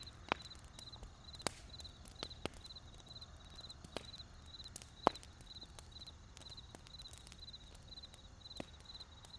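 Wood fire crackling with irregular sharp pops, the loudest about five seconds in. Underneath is a faint high chirping that repeats about twice a second.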